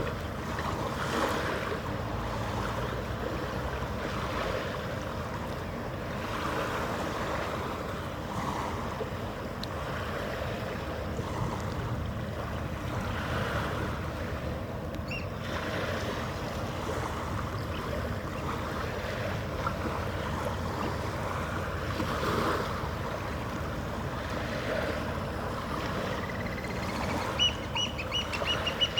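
Harbour ambience: water lapping and wind over a steady low mechanical hum. Near the end a bird starts a rapid series of short, high calls.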